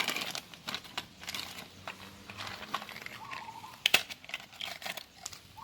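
Irregular crinkling and rustling with many small clicks, as of parts or material being handled, and one sharper click about four seconds in. A bird chirps faintly now and then.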